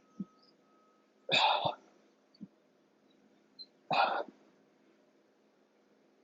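A man breathing out hard in short, sharp puffs, twice, a few seconds apart: exertion breaths timed to leg-raise reps. A soft low knock comes between them.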